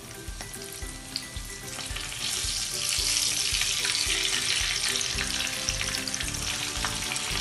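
Breadcrumb-coated prawns on skewers sizzling in hot oil in a frying pan; the sizzle swells about two seconds in as more skewers go into the oil, then holds steady.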